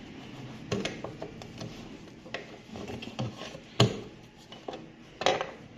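Plastic pulsator of a top-load automatic washing machine being wiggled and pulled up off its drive shaft: scraping and rubbing with a few sharp clicks and knocks.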